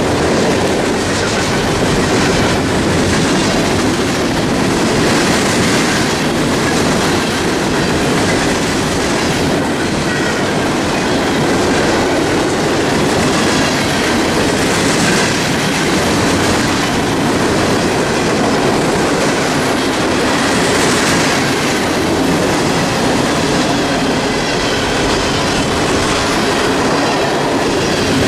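Norfolk Southern freight cars rolling past at speed: a steady rumble of steel wheels on rail, with repeated clacks from the wheels.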